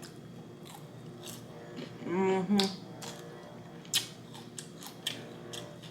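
A person chewing close to the microphone, with a scattering of sharp crunchy clicks and a short voiced hum or murmur about two seconds in.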